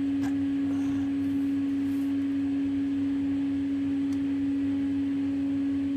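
A steady hum at one constant pitch, with a faint hiss underneath.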